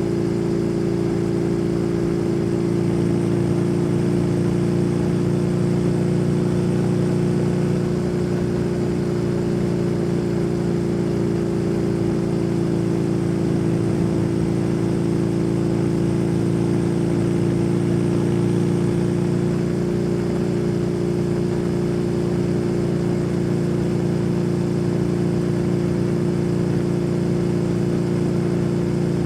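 Kawasaki W800's air-cooled parallel-twin engine running through an SC Project aftermarket exhaust while the bike cruises at a steady speed, its note holding an even pitch.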